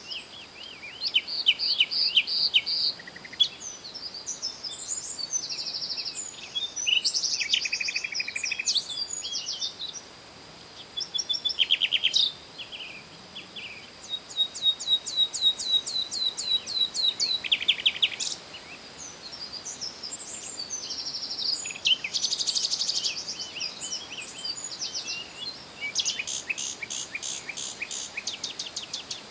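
Songbirds singing: a run of high chirps, whistled notes and rapid trills in overlapping phrases, over a faint steady high tone.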